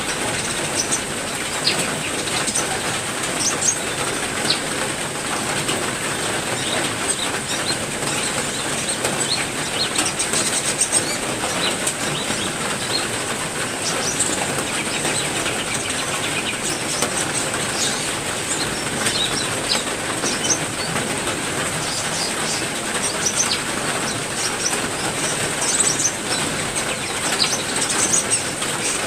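Heavy rain falling steadily, with many short, high chirps from songbirds in an aviary scattered over it.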